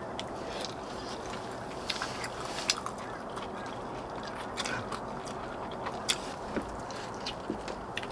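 Close-up eating sounds: chewing and biting on braised monkfish, with scattered short sharp clicks over a steady low hiss.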